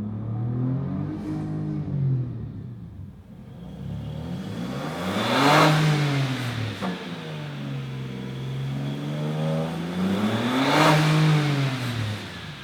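Next-gen Ford Ranger Raptor's twin-turbo V6 exhaust through a new aftermarket mid pipe and muffler, its valves shut in quiet mode so the gas goes through the baffled chambers. The engine is revved in second gear under load on the hoist, rising and falling in pitch three times, a small rev about a second in, then two strong revs.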